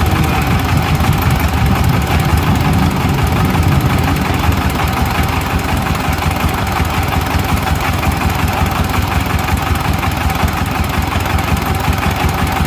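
Sifang power tiller's single-cylinder diesel engine idling steadily, in a fast, even chug. The engine has low oil pressure, its pressure signal rising only halfway and dropping back.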